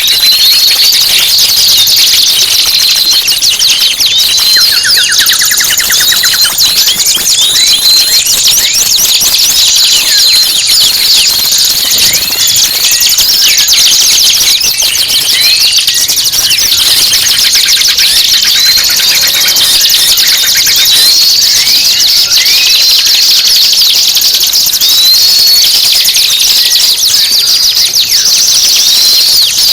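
Recorded songbird song of the masteran kind played to caged songbirds to teach them: dense, shrill, rapid chatter and trills with a rising whistled note repeated about every two seconds.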